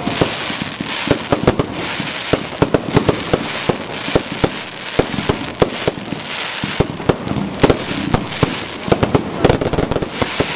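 Fireworks going off: a dense, irregular run of sharp bangs and pops over a continuous crackling hiss.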